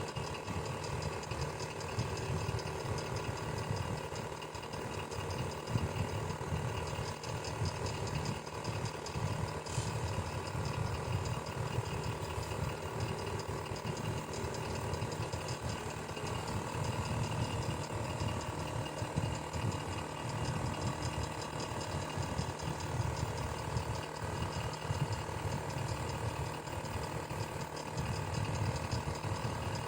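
Electric fan running steadily: an even whir over a low motor hum, with a fine rapid flutter from the blades.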